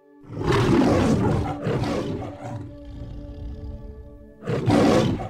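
A big cat roaring, two loud rough roars, the first long and trailing off, the second starting near the end, over steady background music.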